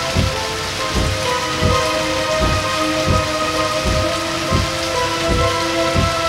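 Steady rain falling, under background music of held notes with a low thudding pulse about every three-quarters of a second.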